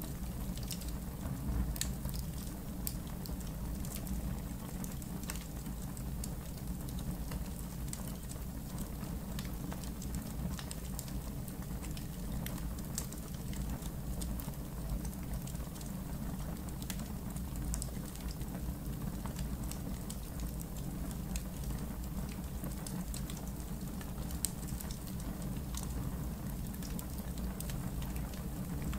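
Campfire in a fire pit crackling, with irregular sharp pops and snaps over a steady low rumble of burning.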